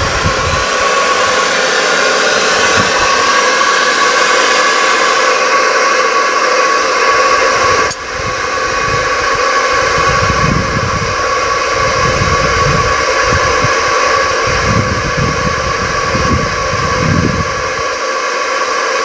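Electric air blower running steadily with a whine and hiss, forcing air into a coal-fired furnace melting brass. Low rumbling gusts come and go in the second half, and the sound dips briefly about eight seconds in.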